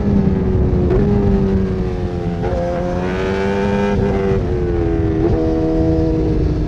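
Motorcycle engine running under way, its pitch sliding and stepping up and down several times with throttle and gear changes, over a steady low rushing noise.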